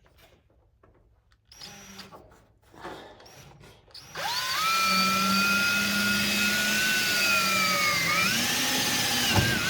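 Handheld power drill given two brief bursts, then running steadily for about six seconds with a steady whine that dips briefly in pitch near the end, drilling a hole in a car's steel fender lip.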